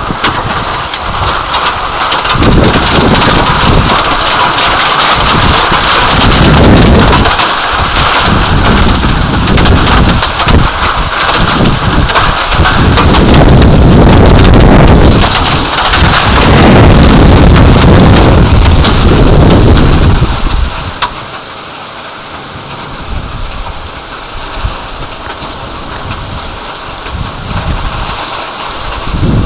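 Heavy thunderstorm rain pouring down, with uneven low rumbling mixed in. About twenty seconds in, the downpour eases and grows clearly quieter.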